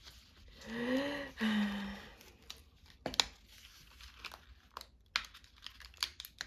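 Paper rustling and crinkling as pages and cut-outs are handled, with scattered sharp crackles. About a second in, a short hummed two-note "mm-mm".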